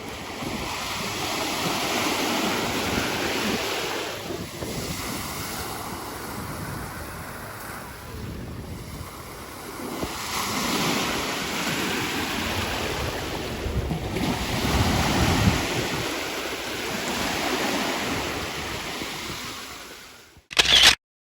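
Sea surf and wind on the microphone, a rushing noise that swells and eases every few seconds. It cuts off suddenly near the end after a brief loud burst.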